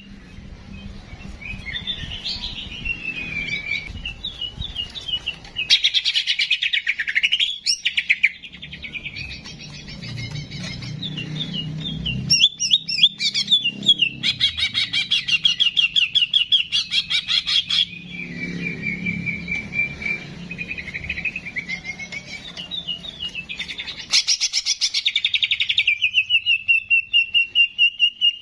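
A songbird singing continuously: a varied run of fast chattering trills and rising and falling whistled phrases, ending in one long steady whistle near the end.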